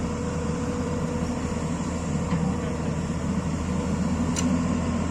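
Excavator's diesel engine running steadily, with a faint click about four seconds in.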